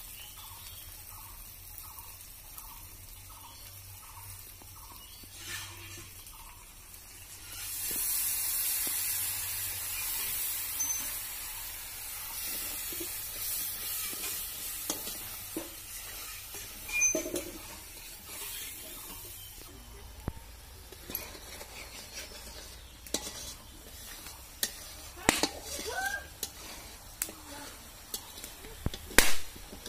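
Spiced masala paste sizzling in a black iron kadai over a wood fire while a steel spatula stirs it. A loud frying hiss builds about eight seconds in and holds for some twelve seconds. In the last third the spatula scrapes and clinks sharply against the pan.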